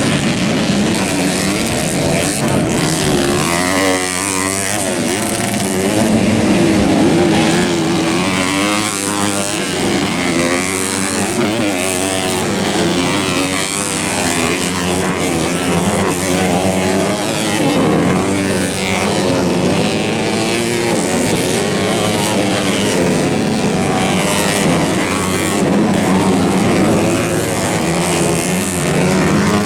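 Several motocross dirt bike engines revving hard as they race, their pitch rising and falling continually and overlapping.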